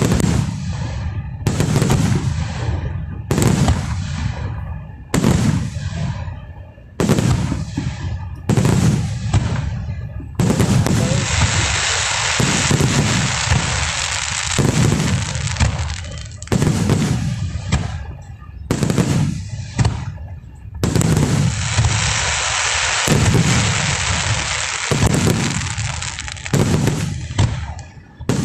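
Aerial fireworks shells bursting, one sharp boom with a low rumbling tail about every second and a half to two seconds. Twice there are stretches of a few seconds of dense, continuous crackling over the booms.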